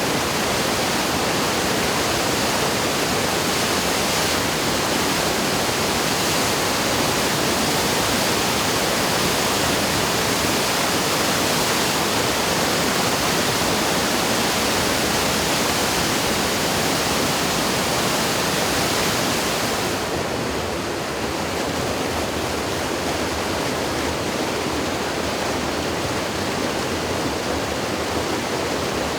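The typhoon-swollen Yoshida River in flood: loud, steady rushing of high, fast water. It turns slightly softer and duller about twenty seconds in.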